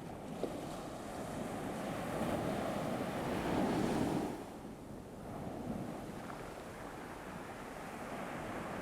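Ocean waves washing onto a shore: one wave swells and breaks about three to four seconds in, then falls away, and a smaller one follows.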